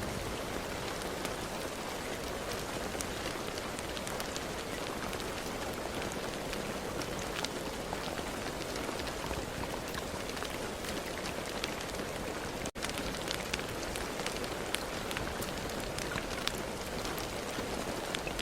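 Steady rain falling, a constant hiss scattered with the taps of individual drops, broken by a momentary dropout about two-thirds of the way through.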